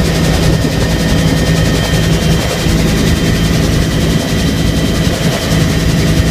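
Bell UH-1 Huey helicopter running steadily and loud: a low rotor and engine drone with a thin, high, steady turbine whine above it.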